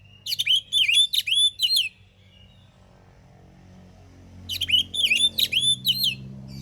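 Oriental magpie-robin singing: two short phrases of four or five loud, sweeping whistled notes, the second about four seconds after the first.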